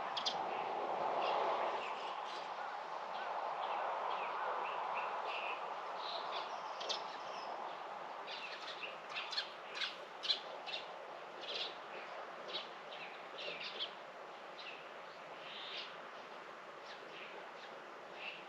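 Small birds chirping repeatedly, with a quick run of calls in the middle, over a steady hiss of background noise that is louder in the first few seconds and then eases.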